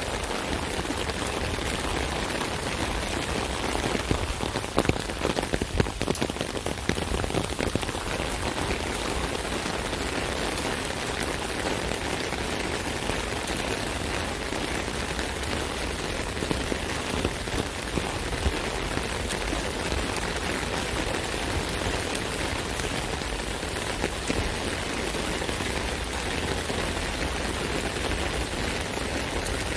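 Steady rain falling on an umbrella: a dense patter of drops on the taut canopy, with a cluster of louder, heavier drops about four to eight seconds in.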